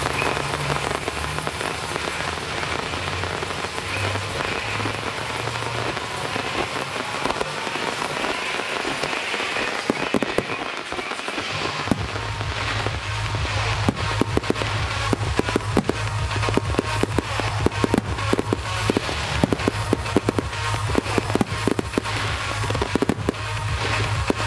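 Starmine fireworks barrage: a dense crackling hiss of burning stars, then from about ten seconds in, rapid bangs of shells bursting several times a second.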